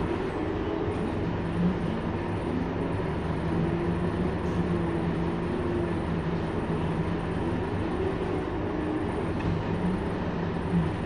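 Scania K230UB single-deck bus running, a steady engine and drivetrain hum with higher tones that rise and fall gently over road noise.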